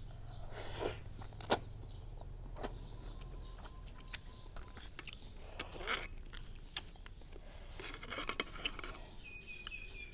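Someone eating a bowl of noodles: chewing, with utensils clicking and scraping against the bowl now and then.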